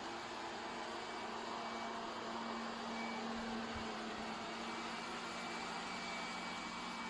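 Polaris vacuum cleaner running steadily: an even motor hum with a faint high whine over a constant rush of suction noise.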